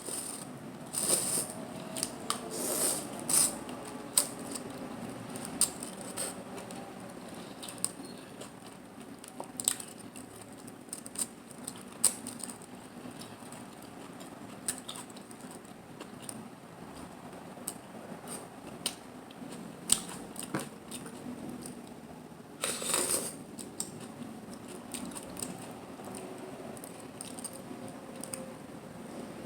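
Close-miked eating sounds from a seafood mukbang: hard shells of mussels and clams clicking and clattering, with eating noises in between. There are many sharp irregular clicks and a few longer, noisier bursts near the start and later on.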